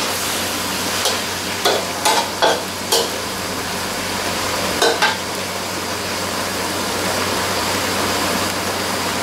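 Beef khua kling sizzling in a hot wok while a metal spatula stirs it, the spatula scraping and clicking against the wok about six times in the first five seconds over a steady frying hiss.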